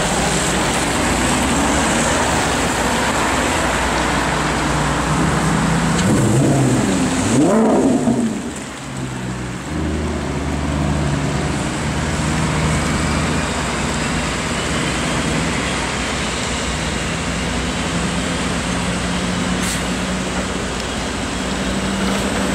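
Maserati GranTurismo S's 4.7-litre V8 revving up and down a couple of times about six to eight seconds in, the loudest moment, then running steadily at low revs. Under it is the constant hiss of city traffic on a wet road.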